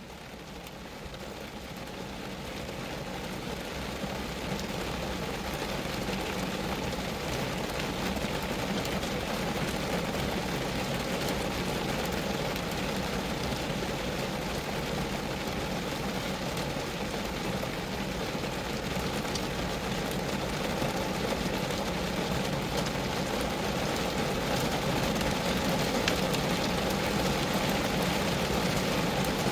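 Steady rain falling on a Geo Metro's body, a dense hiss of many small drop impacts. It fades in over the first few seconds, then holds steady.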